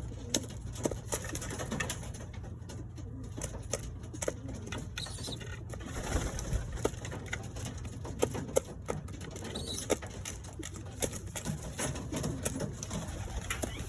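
Doves cooing in their cages, with scattered clicks and knocks throughout over a steady low hum.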